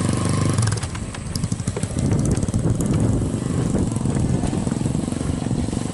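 Strong wind buffeting the microphone, a loud, uneven rumbling noise. A low hum fades out in the first second.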